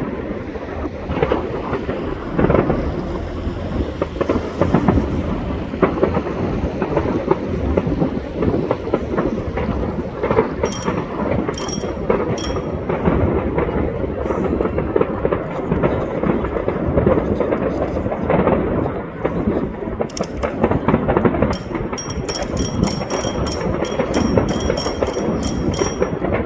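Fireworks display going off in a dense, continuous barrage of overlapping bangs and crackles, with sharper crackles standing out toward the end.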